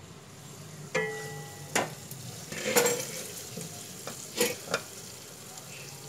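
Stuffed okra frying in oil, sizzling steadily, while a wooden spatula stirs it and knocks sharply against the pan several times. About a second in, the glass pan lid clinks with a short ringing tone as it is lifted off.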